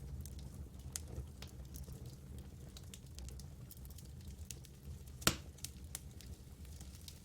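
Campfire burning with scattered sharp crackles and pops over a low steady rumble, and one loud pop about five seconds in.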